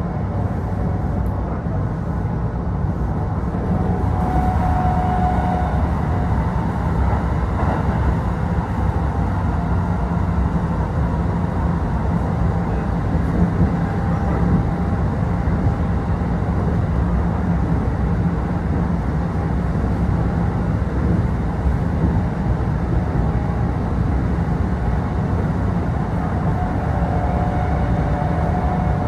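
Running noise inside a Kintetsu Osaka Line electric local train at speed between stations: a steady rumble of wheels on the rails, with a faint steady tone above it.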